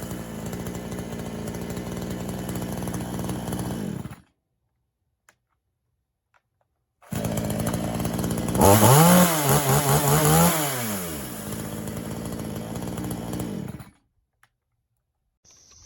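PROYAMA 62cc two-stroke chainsaw engine running, its carburettor high-speed screw turned in half a turn. It runs steadily for about four seconds, then after a few seconds of silence runs again and revs up and back down once before settling.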